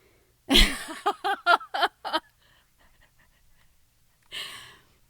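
A woman laughing: a sudden breathy burst, then a quick run of about five short pitched "ha" pulses. A breathy gasp-like intake of breath follows near the end.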